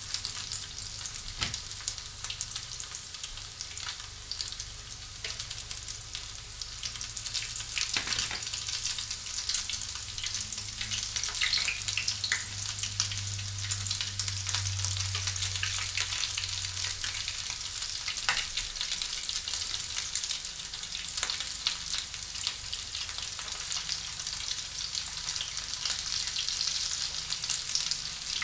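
Frozen chicken taquitos frying in a shallow layer of oil at about 375°F in an electric skillet: a steady hissing sizzle with many scattered sharp pops and crackles.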